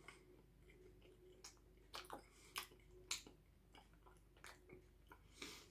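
A person quietly chewing a mouthful of burrito with closed mouth, with a handful of faint short mouth clicks and smacks.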